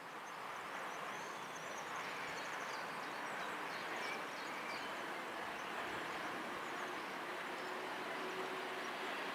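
Distant electric trains approaching: a steady rushing rail noise that builds over the first couple of seconds, with a low steady hum coming in about seven seconds in. Faint bird chirps can be heard over it.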